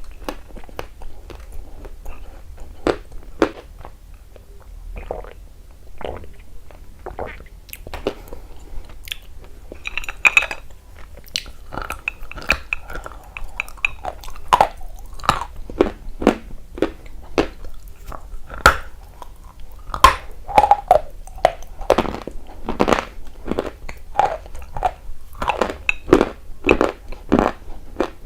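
Close-miked biting and chewing of dry, crunchy clay: irregular crisp crunches that get louder and closer together after about ten seconds.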